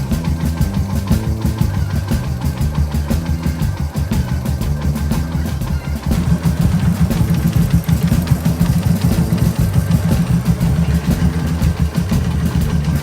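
Kawasaki KZ200 single-cylinder four-stroke motorcycle engine idling steadily, getting louder about halfway through, with background music playing over it.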